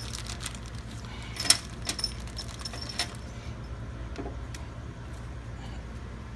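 Light metallic clinks and rattles of compressor mounting hardware being handled while rubber mounting grommets are fitted, with a sharp click about a second and a half in and two more near two and three seconds, over a steady low hum.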